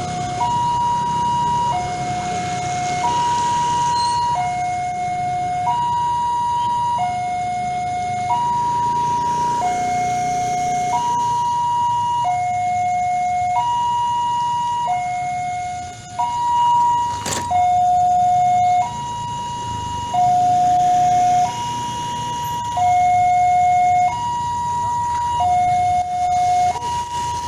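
Indonesian railroad level-crossing alarm sounding: an electronic two-tone signal alternating evenly between a higher and a lower tone, each held about a second and a quarter. A single sharp click comes about seventeen seconds in.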